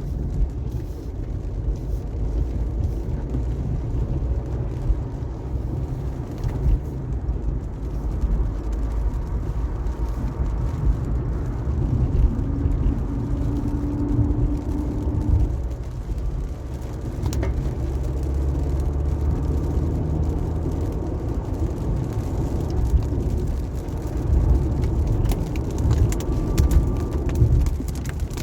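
Car driving on a rain-wet highway: steady low road and engine rumble, with faint tones rising and falling as it moves along.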